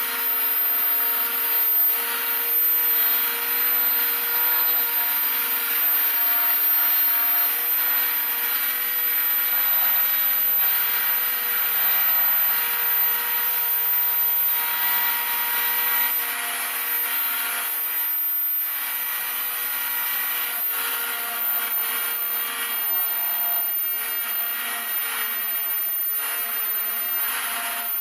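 Spindle of a homemade CNC router running at a steady whine while milling wing ribs, with the rasping noise of the cutter in the material; it gets a little quieter about halfway through.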